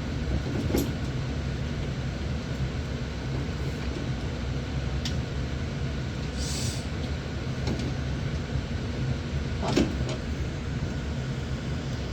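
A steady low mechanical hum, like a fan or heater running, under a few sharp clicks and knocks from hand work on the motor-mount bolts, plus a short hiss about six and a half seconds in.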